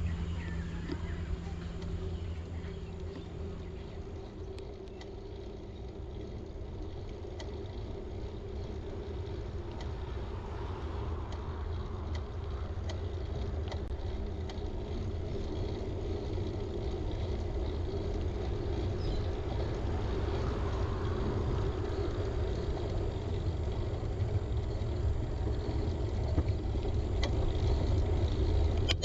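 Steady low rumble of road traffic, growing gradually louder towards the end.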